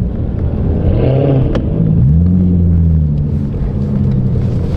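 Loud car engines running with a deep rumble, one revving up about two seconds in and holding its raised pitch.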